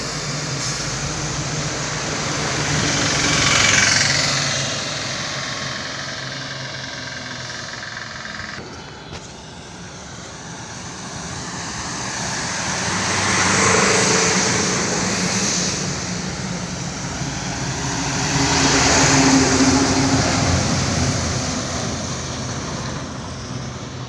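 Road vehicles passing by one after another, three times. Each pass swells in engine and tyre noise, then fades, and the engine pitch drops as the first one goes by.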